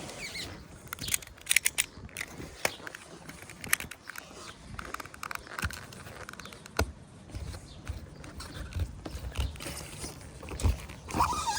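Box cutter blade cutting and scraping out old, cracked sealant from a caravan roof joint: irregular scrapes and sharp clicks.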